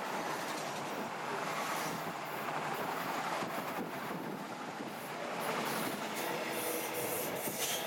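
RoLa rolling-highway freight train, its low-floor wagons carrying lorries, passing close at speed: a steady rumble and rush of steel wheels on rail.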